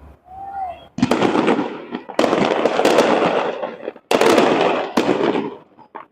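Fireworks display: loud bursts about a second in, at about two seconds and at about four seconds, each trailing off in a long rumbling crackle, with a couple of sharper pops near the end.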